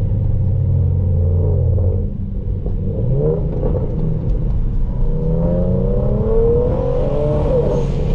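Car engine being revved and accelerated hard in a road tunnel. The engine note drops about two seconds in, then climbs again, rising steadily from about five seconds in to near the end.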